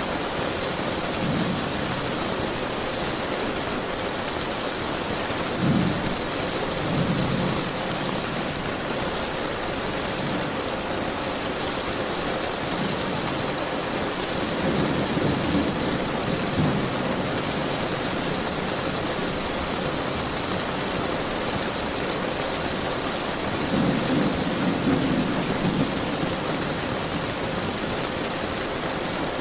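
Steady heavy rain, with rolls of distant thunder rumbling low four times, the sharpest about six seconds in.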